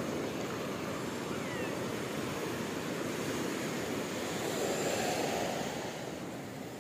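Ocean surf washing onto a beach: a steady rush of breaking waves that swells about two-thirds of the way in and eases off near the end.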